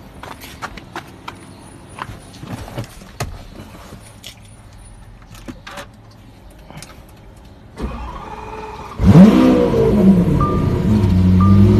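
Light clicks and jingles like keys for several seconds, then a motorcycle engine starts with a sudden loud blip of revs about nine seconds in and settles into a steady idle. A short high beep repeats about every two-thirds of a second near the end.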